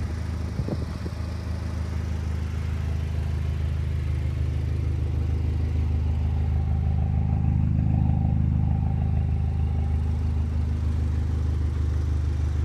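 2007 Saturn Sky's turbocharged four-cylinder engine running steadily as the car rolls slowly: a low, even drone that grows a little louder about midway.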